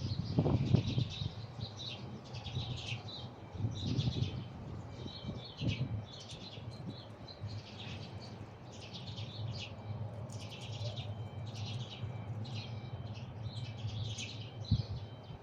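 Small birds chirping and twittering in rapid clusters over a steady low background rumble, with a few low thumps.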